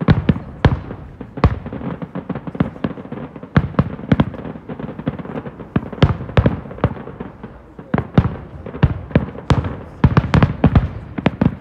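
Aerial firework shells bursting in quick succession: a steady run of sharp bangs that thickens into a dense volley near the end.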